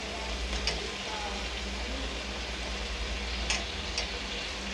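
Onion-spice masala sizzling steadily in a hot kadai as chopped tomatoes are tipped in from a steel plate, with a few light clicks from the plate about a second in and near the end.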